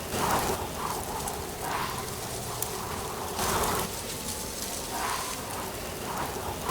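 Autumn wind gusting through trees with dry leaves rustling, rising and falling in irregular swells.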